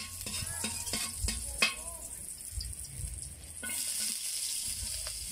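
Garlic sizzling in hot oil in a metal wok, with a metal spatula scraping and clicking against the pan. About two-thirds of the way in, the sizzle swells into a louder, steady hiss as more chopped aromatics are tipped into the oil.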